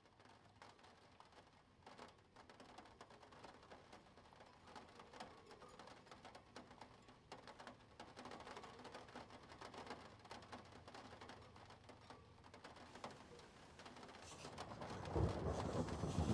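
Spirograph set being handled: scattered small clicks and light rustling, getting louder and fuller about fifteen seconds in.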